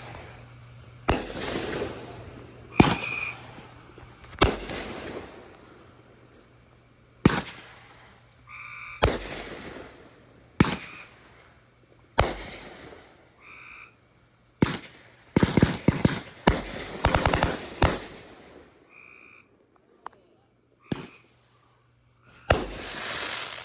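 Consumer fireworks going off in a series of sharp bangs, one every second or two, each trailing away. About 15 to 18 seconds in comes a dense run of rapid crackling pops. Short high chirps sound between some of the bangs.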